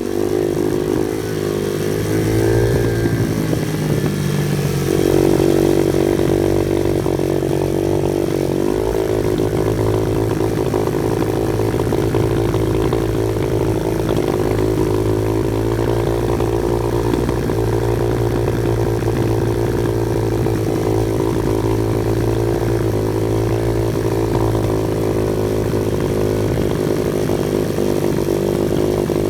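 Off-road vehicle engine running under load, its pitch rising and falling over the first several seconds and then holding fairly steady.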